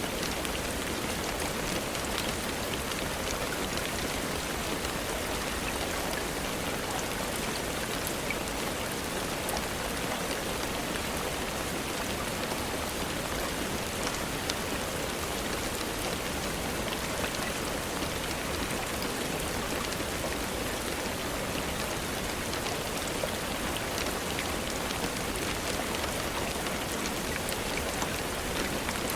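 Steady rainfall: an even hiss of rain with scattered faint ticks of single drops.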